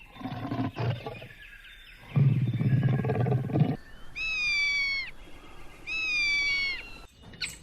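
Animal calls: a low, rough, noisy call about two seconds in, then two high, drawn-out calls of about a second each that drop in pitch at their ends.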